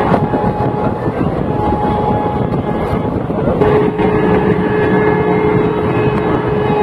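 Steady rumble of a moving passenger train, with wind on the microphone. A faint, steady high tone joins about three and a half seconds in.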